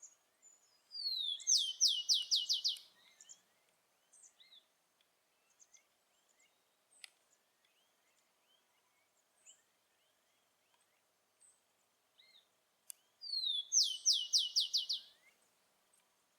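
Rufous-collared sparrow (tico-tico) singing twice: each song is a slurred whistle followed by a quick run of about six falling notes, lasting about two seconds. Faint chirps of other birds come in between the songs.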